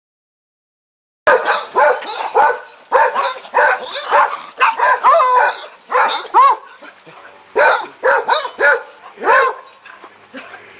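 Dogs barking and yipping at play, in quick runs of short barks. The barking starts suddenly about a second in and eases off near the end.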